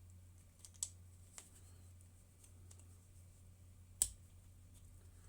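A few light clicks of a screwdriver working at a small screw on a carburettor bracket, with one sharp click about four seconds in, over a low steady hum.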